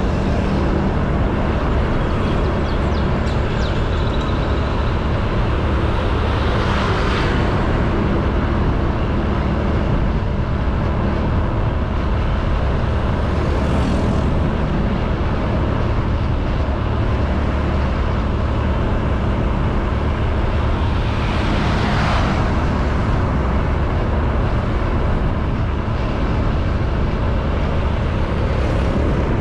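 Honda Beat 110cc single-cylinder scooter engine running steadily at cruising speed, with wind and road noise on the helmet or handlebar camera's microphone. Three brief whooshes, about seven, fourteen and twenty-two seconds in, as other vehicles pass.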